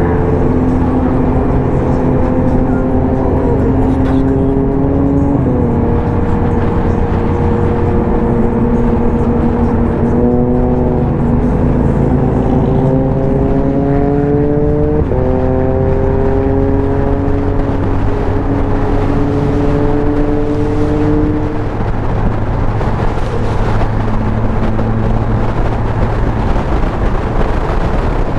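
A motorcycle engine running while being ridden. Its pitch climbs slowly and drops suddenly twice, over a steady low rumble.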